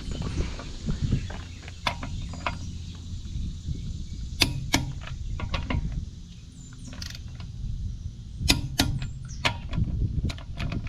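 Hand tools working on car parts: scattered sharp metal clicks and knocks, about eight spread unevenly, over a low steady rumble.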